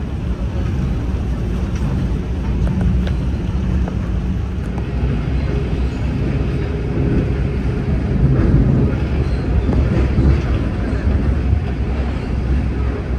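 On-board running noise of a CFM D1M diesel multiple unit moving slowly: a steady low rumble of wheels on the rails and the diesel drive, with a few faint clicks.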